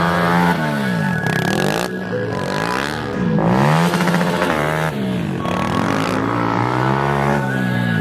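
Pit bike engines revving, the pitch dropping and climbing again and again as the riders come off and back onto the throttle.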